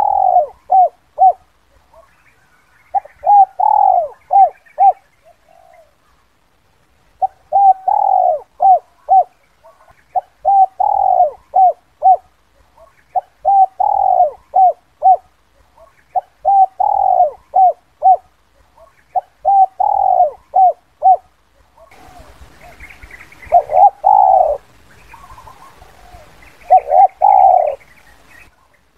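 Spotted dove cooing, the 'kuk 2' call used as a lure to draw wild doves. Phrases of several short coos come about every three seconds. Near the end, a faint hiss sits behind the calls.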